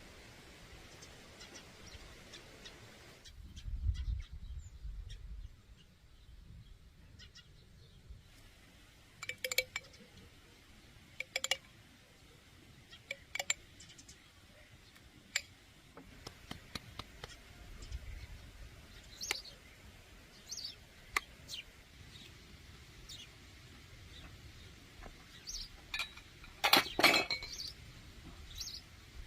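Scattered clinks and knocks of kitchenware being handled, with a cluster of louder clatters near the end. Birds chirp now and then in the background.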